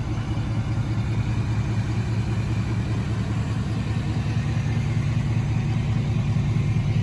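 A vehicle engine idling steadily, a deep even sound with no change in pitch.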